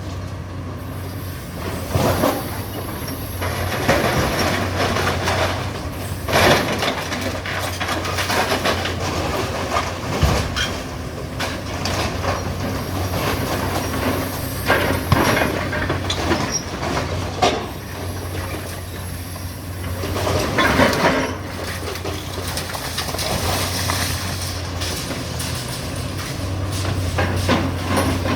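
Hydraulic demolition excavator working on a building: its diesel engine runs steadily while the bucket or shears crunch, scrape and screech through debris, with repeated loud crashes of falling material.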